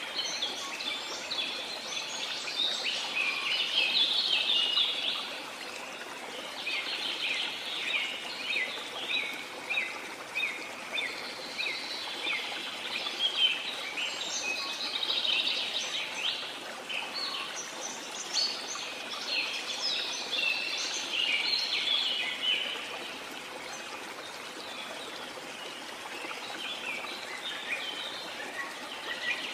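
Waterfall rushing steadily while many birds chirp in busy overlapping bursts; the birdsong thins out for a few seconds near the end.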